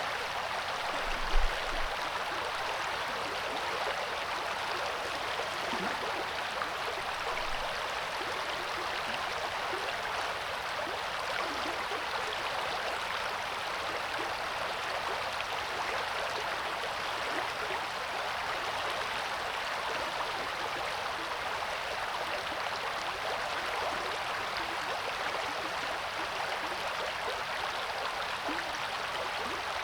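Steady rushing of the Coeur d'Alene River's flowing water, even and unchanging, with one brief low thump about a second in.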